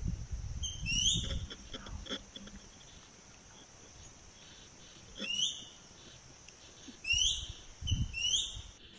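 A bird calling in short, high, hooked chirps that come in small groups. A steady high insect whine runs underneath, and there is low rumbling at the start and again near the end.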